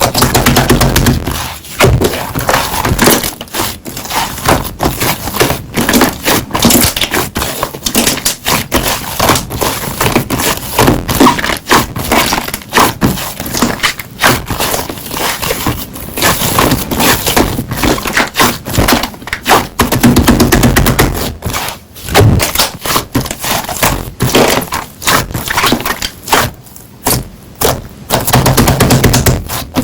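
Slime being squished and pressed by hand, giving a dense run of crackling and popping clicks.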